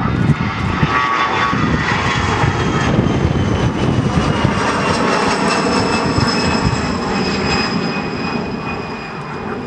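Airliner passing close by: a loud engine rumble with a high whine that falls slowly in pitch, fading near the end.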